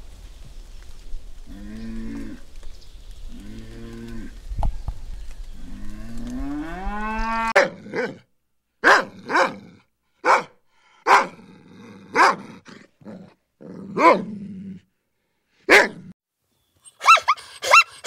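A cow mooing: two short low moos, then a longer rising moo. From about seven and a half seconds a puppy barks about eight times, spaced out. Near the end a zebra herd's rapid yelping calls begin.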